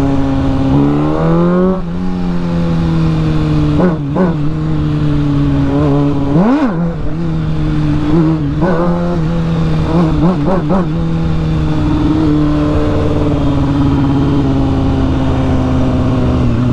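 A big motorcycle's engine running while the bike is ridden. The revs rise about a second in, then come several quick throttle blips in the middle, before it settles back to a steady run.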